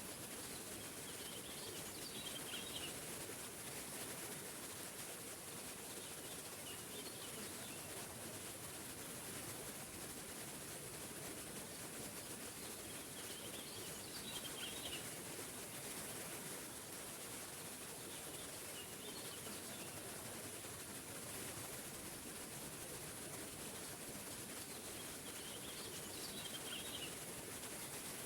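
Waterfall's steady rush of falling water, with a bird singing a short chirping phrase over it about every five or six seconds.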